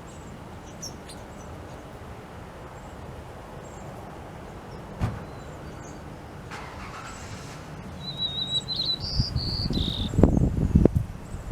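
Outdoor ambience with a low steady hum, where a small bird sings a short phrase of high whistled notes stepping in pitch near the end. Louder low rustling thumps come in over the last couple of seconds.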